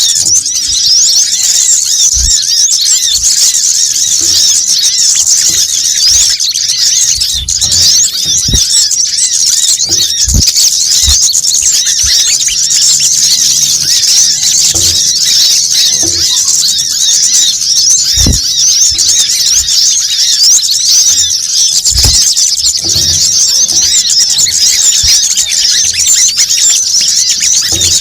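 Dense, high-pitched chattering of many small birds, their rapid chirps and trills overlapping without a break, as in a bird-luring call recording. Short low thumps are heard every second or two.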